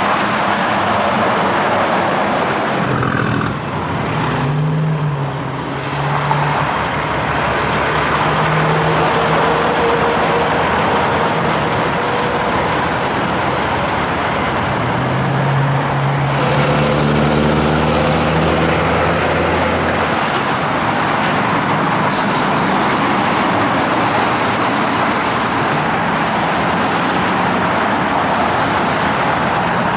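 Steady highway traffic noise from semi trucks and cars passing. The engine hum of heavy trucks comes through about four seconds in and again around the middle.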